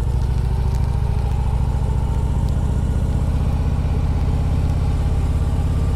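Harley-Davidson V-twin motorcycle engine running steadily at low revs, with an even low pulse, as the heavy bike is taken slowly through a U-turn.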